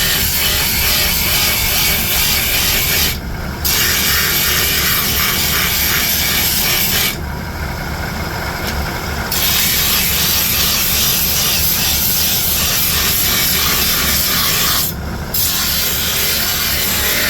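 Steel being worked against an abrasive, a loud continuous rasping hiss over a steady low machine rumble. The rasp breaks off three times when the steel is lifted away, once for about two seconds midway.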